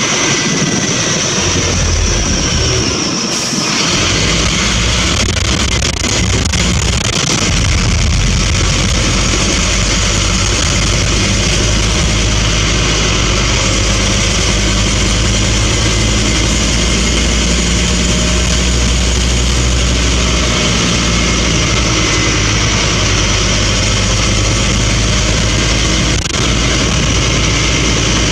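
Scania N230UB single-deck bus's engine running, heard from on board: a steady low drone with a steady high hiss over it. The engine note drops out briefly about three seconds in, then holds steady.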